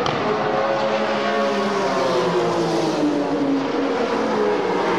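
Several Group A and Group C touring cars racing past at high revs, their engines sounding together, with the pitch of some sliding down as they go by.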